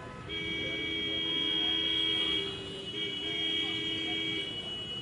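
A vehicle horn sounding two long, steady blasts of about two seconds each, with a short break between them.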